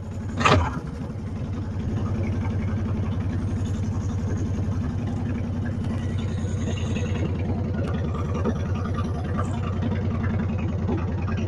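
Honda Fury's 1300cc V-twin, fitted with aftermarket pipes, idling steadily with an even pulsing beat just after being started following a spell of sitting unused. There is a brief louder sound about half a second in before the idle settles.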